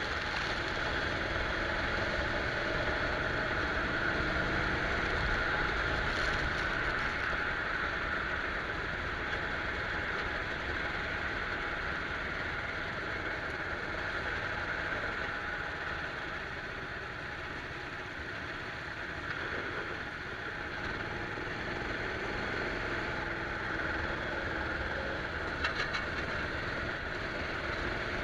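Go-kart engine running at speed on a wet track, heard from an onboard camera, under a steady rushing hiss. The engine eases off briefly about two-thirds of the way through, then picks up again.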